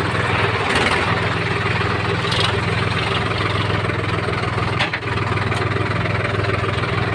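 Heavy diesel engine running steadily at idle, with one brief dip about two-thirds of the way through.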